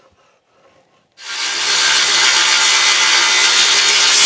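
Circular saw starting about a second in and cutting steadily through a wooden board, a rip cut along a 2x6.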